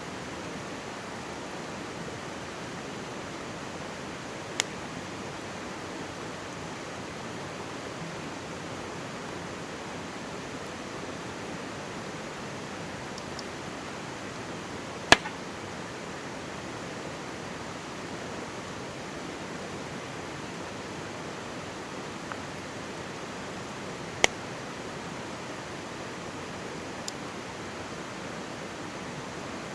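Mountain stream babbling steadily close by, with a campfire's wood popping and crackling over it: a handful of sharp pops, the loudest about halfway through.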